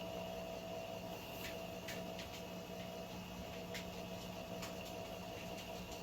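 Small electric motor humming steadily, with scattered faint clicks and ticks.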